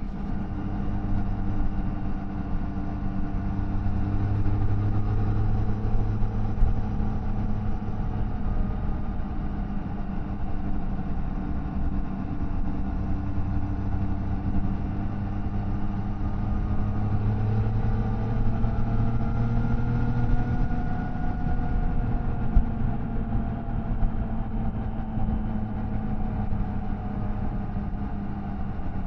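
Triumph Tiger Sport 660's three-cylinder engine and exhaust running under way at steady cruising revs. The revs climb a little past the middle and then settle back.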